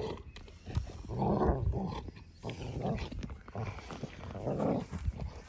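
Dog growling in play: a series of rough growls, each lasting about a second.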